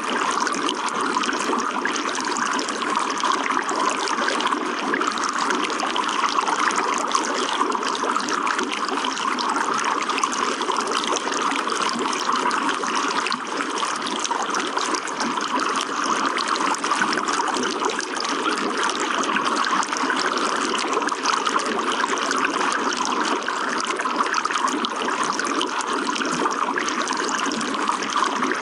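Running water in a steady, continuous trickling flow.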